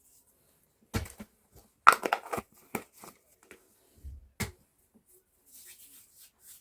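Several sharp knocks and clatters of small objects being handled and set down, about a second apart, then a soft rustling near the end.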